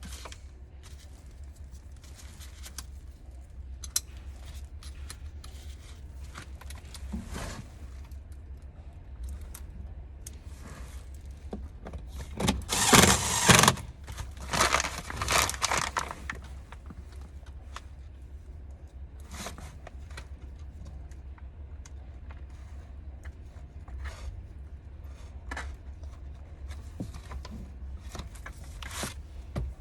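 Scattered metallic clicks and knocks of hand-tool work on metal parts, with a louder stretch of rattling and scraping about twelve to sixteen seconds in, over a steady low hum.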